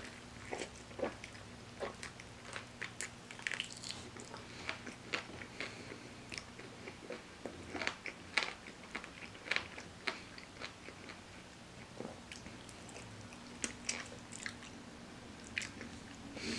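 A person biting and chewing crispy fried chicken: irregular crunches of the fried coating and short mouth clicks, a few every second.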